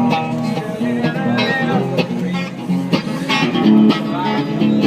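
Guitar strumming chords in a steady rhythm, played live as an instrumental break with no singing.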